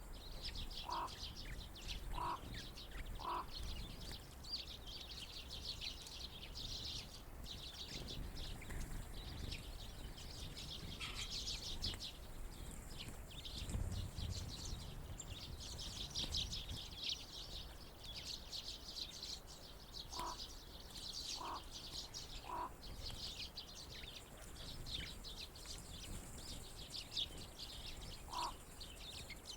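A flock of birds chirping and twittering without a break. A clear three-note call sounds near the start, again about two-thirds of the way through and once more near the end, over a low background rumble.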